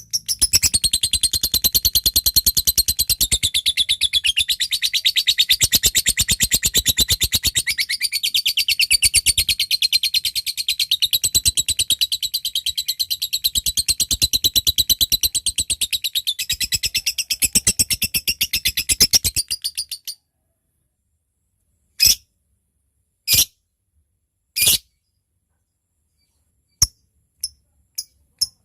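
Lovebird giving a long, rapid chattering trill (the "ngekek panjang") that runs for about twenty seconds and stops abruptly. After a short pause come three separate short calls, then a few quick sharp ticking notes near the end.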